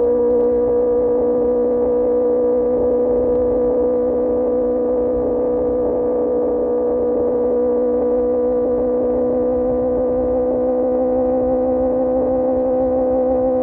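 QJMotor SRK600 inline-four running through an Austin Racing GP1R exhaust at steady revs while cruising. It is an even drone that creeps up slightly in pitch, with wind rumble underneath.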